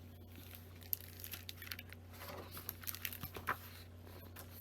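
A picture book being handled and opened, its pages and cover rustling and crinkling, with a few light clicks.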